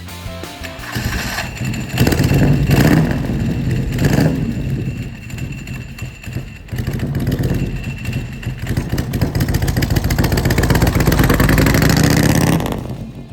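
Harley-Davidson Softail's Evolution V-twin revving and pulling away under throttle, with sharp surges about two and four seconds in, then a long steady pull that dies away near the end.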